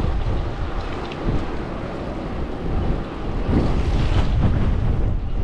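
Gusty wind buffeting a handlebar action-camera microphone, a dense low rumble that gets stronger about three and a half seconds in.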